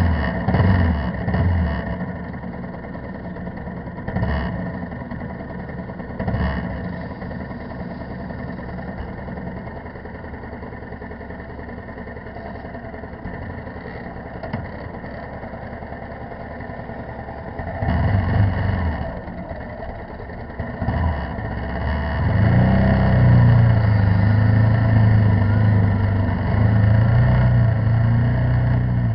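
Motorcycle engine running under varying throttle: quieter for much of the time, a brief rev a little past the middle, then loud and steady near the end.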